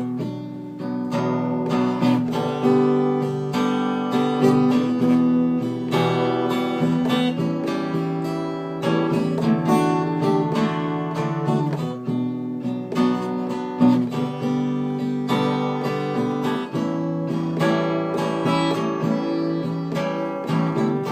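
Acoustic guitar strumming and picking an instrumental break in a slow ballad, with no singing.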